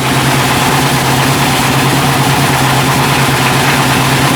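Meatball grinding machine running: a steady motor hum with an even hiss over it that gets louder right at the start.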